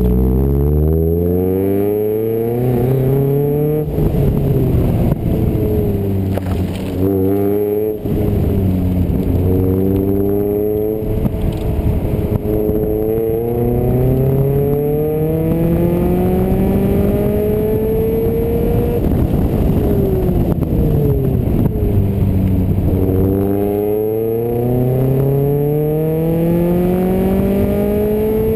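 A 1991 Honda Civic EF hatchback's D16 SOHC four-cylinder engine, heard from inside the cabin on a fast lap. Its pitch climbs in long pulls under hard acceleration and drops back sharply several times at gear changes and lifts, with one longer fall about 19 seconds in as the car slows for a corner before pulling hard again.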